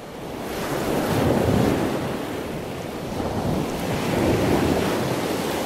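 Ocean surf washing onto a beach, a steady rush of water that fades in and swells twice as waves break.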